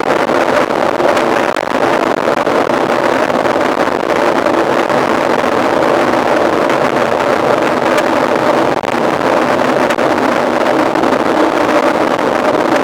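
Steady rushing of wind on the microphone with tyre and rolling noise from a mountain bike being ridden.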